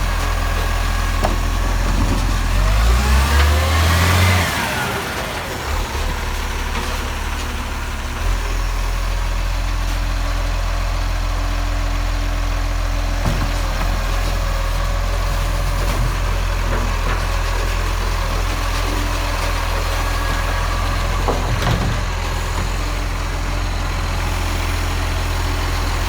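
Garbage truck engine idling steadily, its pitch briefly rising and falling about three seconds in before settling back to a steady idle.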